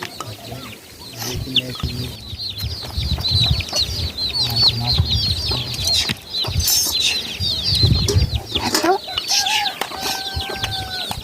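Chickens calling in a busy, continuous run of short, high, falling calls, many a second, with low knocks and bumps underneath.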